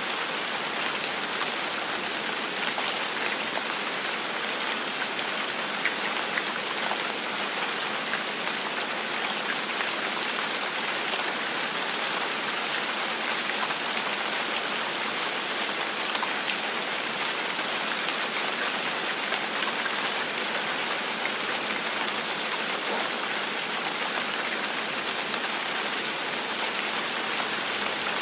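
Steady gentle rain falling, an even hiss with the small patter of individual drops throughout.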